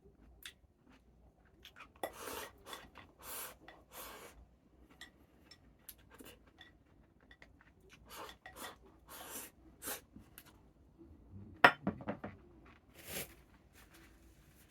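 Eating utensils clicking and scraping against a bowl and dishes during a meal, in scattered short strokes, with one sharp clink near the end.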